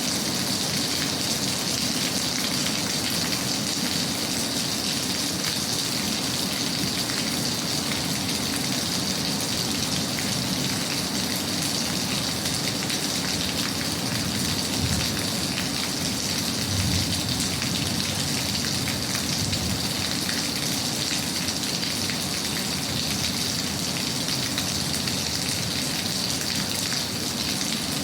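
Steady rain falling, an even hiss of drops, with two brief low thumps a little past halfway through.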